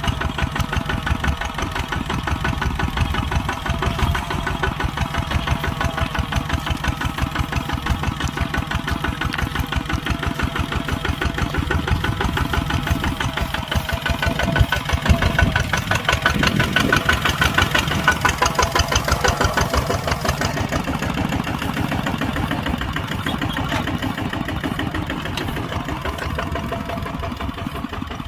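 Kubota tractor's diesel engine running steadily with a rapid, even firing pulse as it works plowing a field, growing louder for several seconds past the middle.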